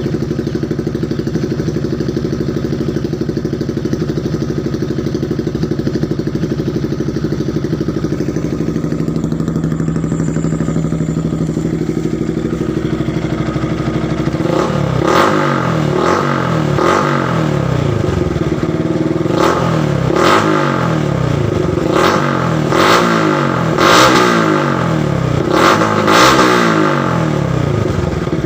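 Yamaha Vixion's single-cylinder four-stroke engine breathing through an aftermarket 'kidal kobra' exhaust, idling steadily for about half the time. It is then revved in a string of short throttle blips, each rising and falling, roughly eight or nine of them.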